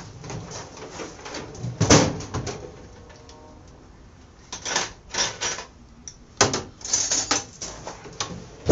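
A series of knocks and clattering, like parts or tools being handled: a loud knock about two seconds in, a quiet stretch, then several more knocks and rattles near the end. No grinder is running.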